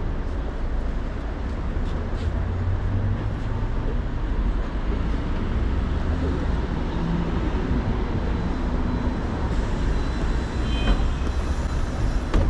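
Steady low rumble of a motor vehicle running, with a brief click about eleven seconds in.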